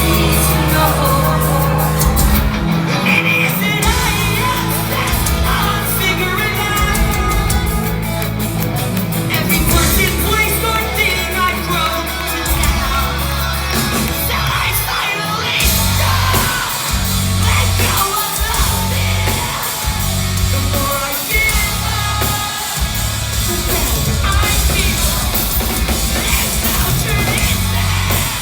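Live rock band playing loudly in a large hall: distorted guitars, bass and drums, with the lead singer's high singing and yelling over them, heard through a phone's microphone.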